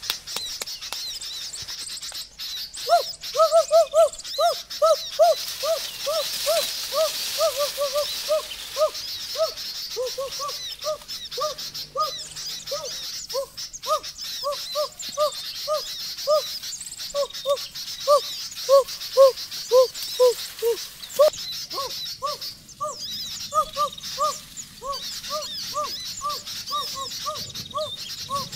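A bird calling a long run of short, arched, hooting notes, about three a second, starting about three seconds in. Behind it is a steady high-pitched chirping chorus.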